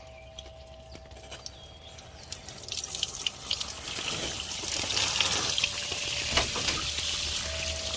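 Water pouring out of a slit cut in a sagging canopy roof and splashing down, starting about two seconds in and growing to a steady rush of pooled rainwater draining.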